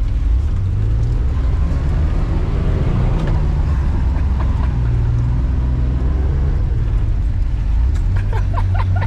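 A 1990s pickup truck driving, heard from inside the cab: a steady, loud low rumble of engine and road noise. The engine note rises and falls gently a few seconds in.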